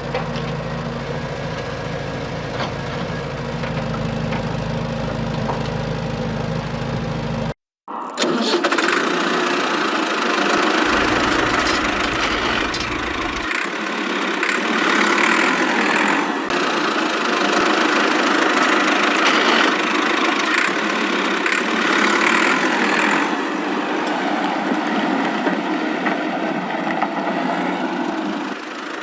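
Small engine running steadily with an even low hum. After a sudden break about eight seconds in, a louder, rougher machine noise follows without the low hum.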